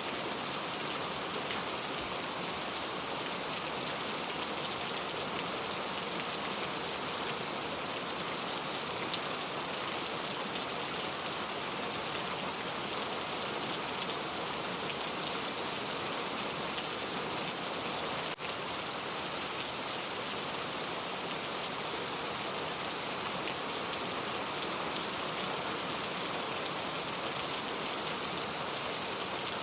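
Steady, even rainfall, a dense patter of raindrops on a surface, with a brief dip in level about two-thirds of the way through.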